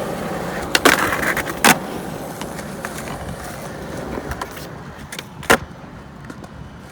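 Skateboard wheels rolling, the noise slowly fading, with sharp board clacks about a second in, again shortly after, and a loud one near the end.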